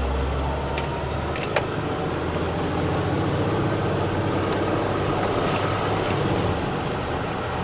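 Truck engine and road noise heard from inside the cab while driving, a steady low drone whose note shifts about a second and a half in.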